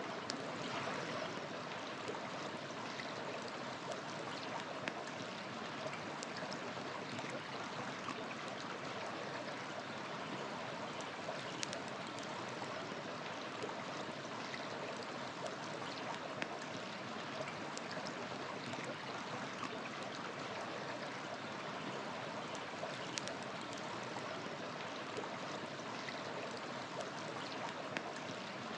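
River water flowing steadily, with occasional sharp pops and crackles from a wood fire burning beside it.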